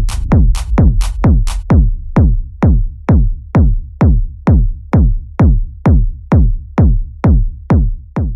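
Techno track's closing bars: a drum-machine kick drum on every beat, about two a second, each hit dropping in pitch. Bright hi-hat hits sound over the first four beats, then the kick carries on alone.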